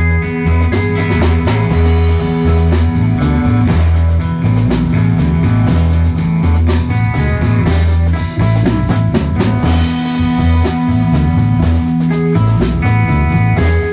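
Live rock band playing an instrumental passage: electric guitar and bass holding notes over a steady drum-kit beat with percussion, no vocals.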